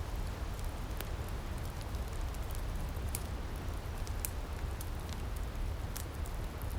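Wood fire crackling in an outdoor firepit: irregular sharp pops and snaps, about one a second, over a steady low rumble.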